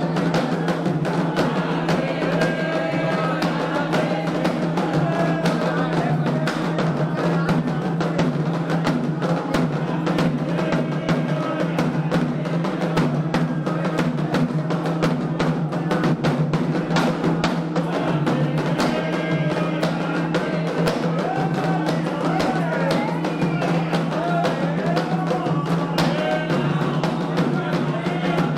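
Candomblé ceremonial music: atabaque hand drums and a struck bell keeping a fast, steady rhythm while voices sing a chant over them.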